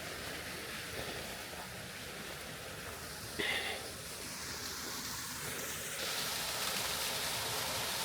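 Creek water rushing steadily over a small cascade, getting louder about six seconds in. A brief high-pitched sound cuts in about three and a half seconds in.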